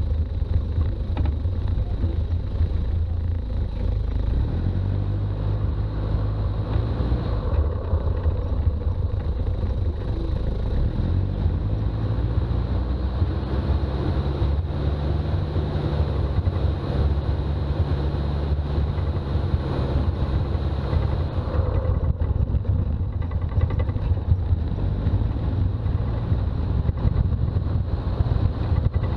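Toyota BJ40 Land Cruiser's four-cylinder diesel engine running on the road, with a steady drone of engine and road noise. The engine note climbs twice in the first half, then evens out.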